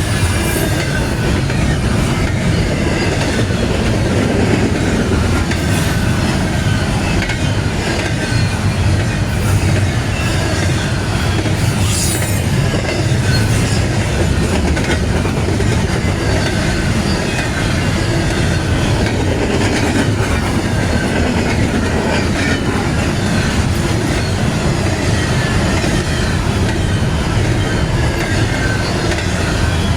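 CSX intermodal freight train I157 rolling past: a steady loud rumble of cars and wheels on the rails, with faint high whines from the wheels sliding down in pitch.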